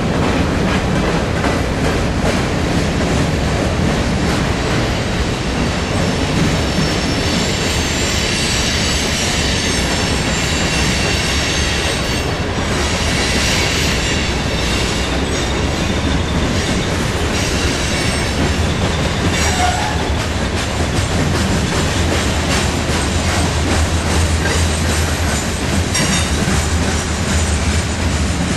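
Freight cars of a mixed freight train (gondolas and covered hoppers) rolling past: a steady rumble of wheels on rail with scattered clicks at the rail joints. A high-pitched squeal rises about 8 seconds in and fades out by about 16 seconds.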